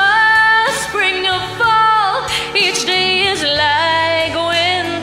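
A woman singing a slow pop ballad over instrumental accompaniment, holding long notes with vibrato.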